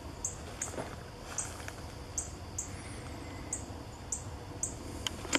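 A small bird calling: short, very high chirps, often in pairs, repeating about every half second, over faint outdoor background noise, with a sharp click near the end.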